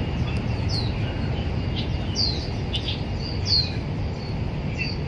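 Birds chirping: a few short, falling calls, about one every second or so, over a steady low rumble.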